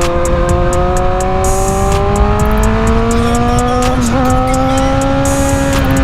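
Motorcycle engine running under way, its note rising slowly as the bike gathers speed, with a brief dip in pitch about four seconds in before it holds steady. Wind rumble sits underneath.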